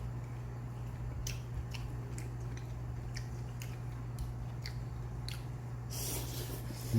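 A person chewing food with the mouth close to the microphone, wet clicks of the mouth coming every half second or so, with a short breathy rush about six seconds in. A steady low hum runs underneath.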